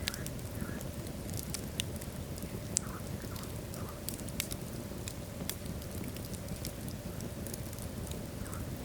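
Wood logs burning in a fireplace: a steady low rumble of flame with frequent sharp, irregular crackles and pops.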